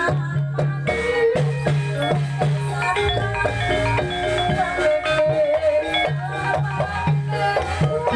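Traditional Javanese ebeg accompaniment: tuned mallet percussion (gamelan or calung) playing a steady melodic pattern over drums.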